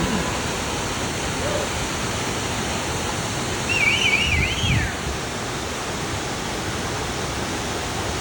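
Fossil Creek waterfall, a steady full rush of falling water. About four seconds in there is a short, wavering high whistle and a brief low thump.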